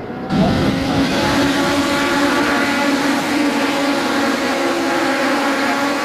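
Racing cars' engines running hard as a pack goes by at speed. The sound comes in suddenly just after the start and holds steady, easing slightly near the end.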